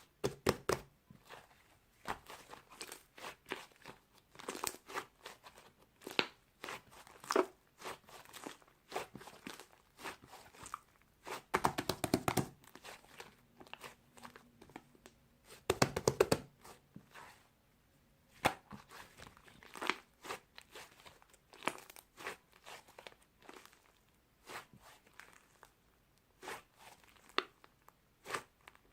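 Slime being squeezed, pressed and stretched by hand, making irregular sticky clicks and crunchy pops. Two runs of rapid crackling come about twelve and sixteen seconds in.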